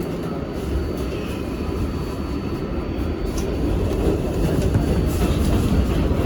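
R188 subway train on the 7 line running, heard from inside the car: a steady low rumble that grows slightly louder. A thin high steady whine stops about five seconds in.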